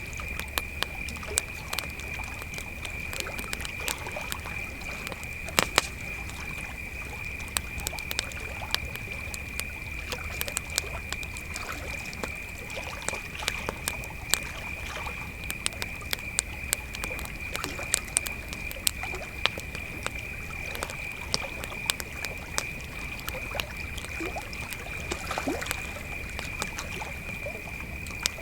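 Crickets trilling steadily, with a campfire crackling and popping in sharp, irregular snaps.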